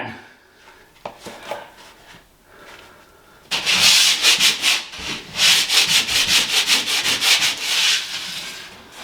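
Sandpaper rubbed by hand across a ceiling, starting with a few quiet seconds and a single click, then fast back-and-forth scratchy strokes, about four a second, from about three and a half seconds in.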